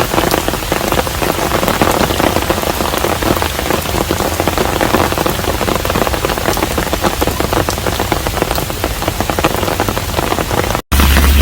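Steady heavy rain falling on a hanok, a dense patter of countless drops. Near the end it cuts out for an instant and a different sound with a loud low rumble takes over.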